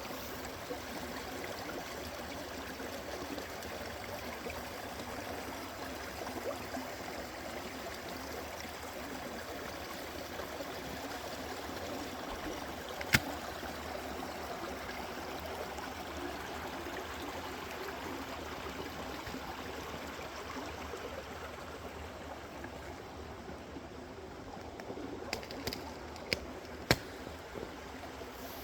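A creek running steadily, a continuous rush and trickle of flowing water. There is one sharp click about halfway through and a few more small clicks near the end.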